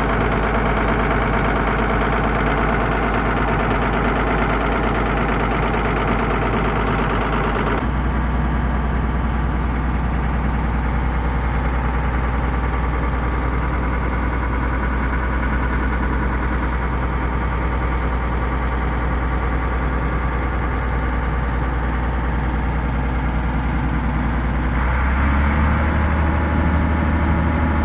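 Leyland Panther's mid-mounted six-cylinder diesel engine idling, still warming up after a cold start. About eight seconds in the engine note changes sharply, the higher part of the sound dropping away, and near the end the low note strengthens and begins to pulse.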